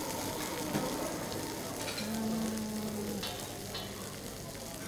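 Chicken satay skewers sizzling as they shallow-fry in a little oil in a large wide pan, with a few clicks and scrapes of a metal spatula against the pan as the pieces are turned.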